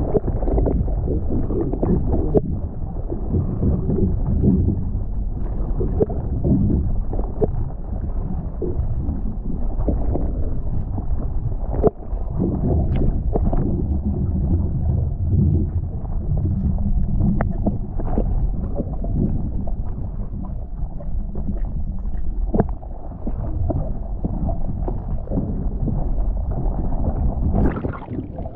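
Muffled underwater sound picked up by a camera held below the surface: a dense low rumble and gurgling of water, with scattered sharp clicks and knocks. Near the end a brief brighter rush, after which the sound drops.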